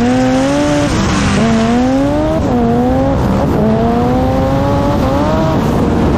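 Single-turbo car engine at full throttle, its pitch climbing steadily and dropping back sharply at each upshift, about four shifts in a row.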